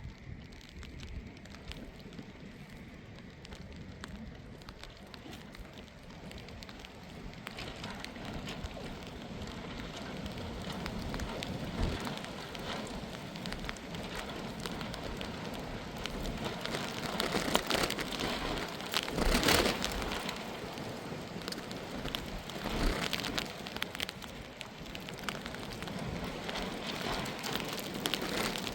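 Heavy rain falling, a steady hiss with many small drop hits, building from about a third of the way in and heaviest about two-thirds through.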